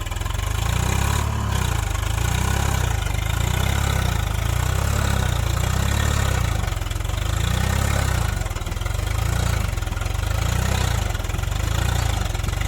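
Swaraj 742 FE tractor's diesel engine running at a low, steady speed, its note swelling and dipping about once a second.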